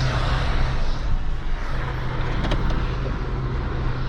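Plow truck running, heard from inside the cab, a steady low engine hum under a broad even rush of road and mechanical noise, with a few light clicks about two and a half seconds in.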